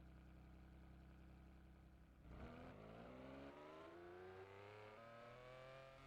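Vehicle engine running steadily at a low, even pitch, then about two seconds in it picks up and its pitch climbs steadily as the vehicle accelerates.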